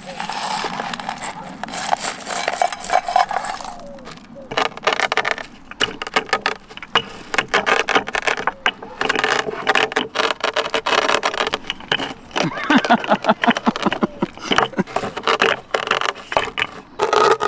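Cooking utensils and dishes being handled and set down: a busy run of small metallic clinks, knocks and scrapes.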